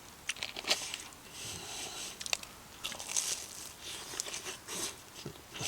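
Someone biting into and chewing a fried cheese hotdog, with irregular crunchy clicks from the batter.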